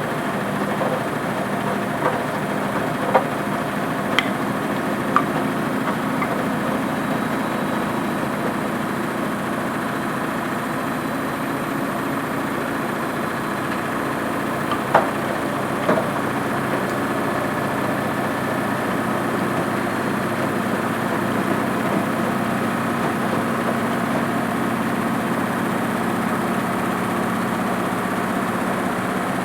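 Washing machine running with a steady motor hum. Several sharp clicks or knocks come in the first half, about six of them, likely items in the load striking the drum.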